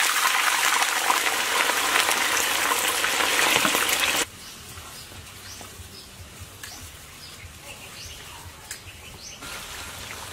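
Sliced food deep-frying in a wok of hot oil, a loud steady sizzle. About four seconds in it cuts off suddenly to a quieter background with a few short bird chirps, and the sizzle returns near the end.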